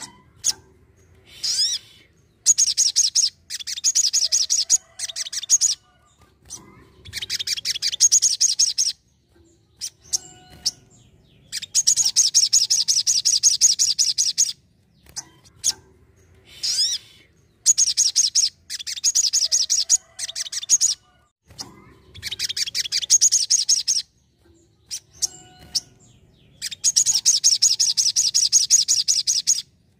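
Sogon, a small sunbird, singing in loud bursts of rapid, high-pitched trilling chatter, each one to three seconds long, repeated after short pauses.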